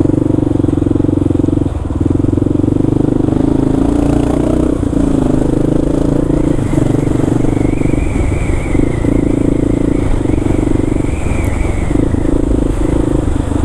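Kawasaki KLR650's single-cylinder engine running steadily under way, with small dips in level. A faint wavering high tone comes in about six seconds in and fades out near the end.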